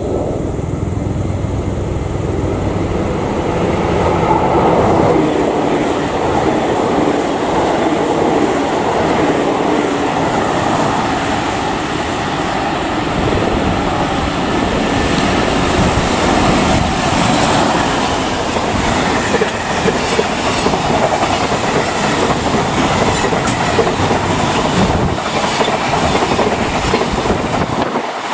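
Freight train passing, its wagon wheels clattering rhythmically over the rail joints.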